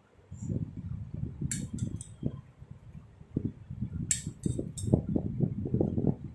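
Kitchen utensils clinking a few times, metal against a bowl or glass, over irregular low knocks and handling noises while a cake layer is being soaked with sugar syrup.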